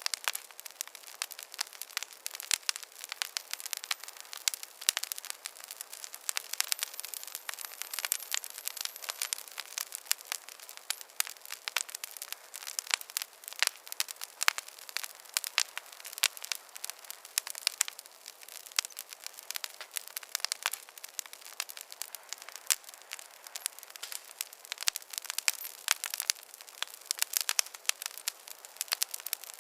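Wood fire in a fireplace crackling steadily: a dense run of sharp pops and snaps over a light hiss.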